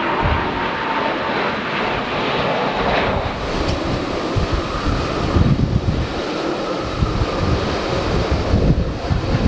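Airliner engine noise, a steady rush with a faint whine, heard through strong wind buffeting the microphone in irregular low gusts that the windshield does not keep out.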